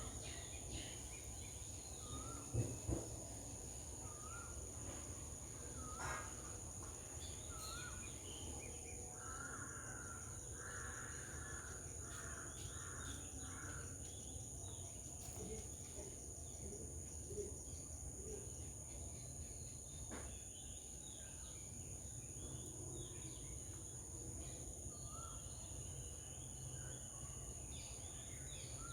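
Garden bird calls: scattered short whistled notes, with a run of about five caw-like calls near the middle, over a steady high-pitched insect drone and a low rumble. Two sharp knocks sound about three seconds in.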